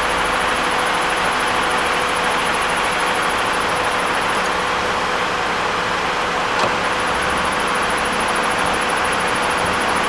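Car engine running, with a very high-pitched, rapidly pulsing noise from the engine bay that the owner can't identify. It drops out for about two seconds midway, and there is a single sharp click just before it comes back.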